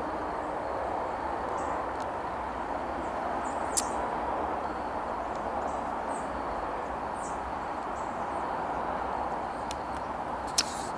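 Faint, scattered high chirps from a large passing flock of migrating birds over a steady outdoor wash of noise, with two sharp clicks, one about four seconds in and one near the end.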